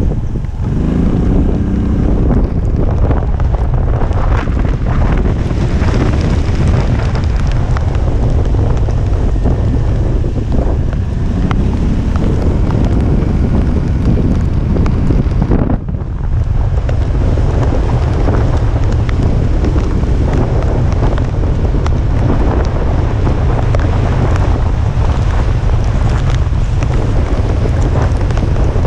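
Typhoon-strength wind buffeting the microphone in a loud, steady low rumble, with a constant rush of wind-blown noise above it. The rumble drops out for a moment about halfway through, then resumes.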